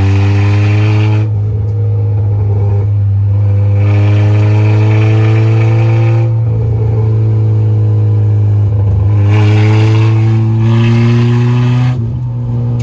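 Honda CRX engine and exhaust heard from inside the cabin, pulling hard: the engine note climbs, drops back at each gear change and climbs again, several times, over a steady low drone. The exhaust has not yet been piped to the back of the car.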